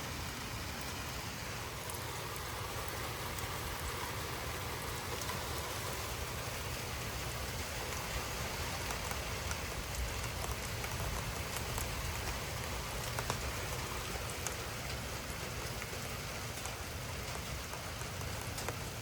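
Torrential rain falling steadily in a thunderstorm, with scattered sharp drop ticks.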